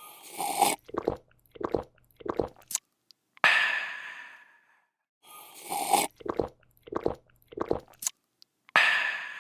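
A person drinking in a repeating loop: a slurp, three or four quick gulps, then a loud breathy 'aah' that fades out. The cycle plays about twice, and a third 'aah' begins near the end.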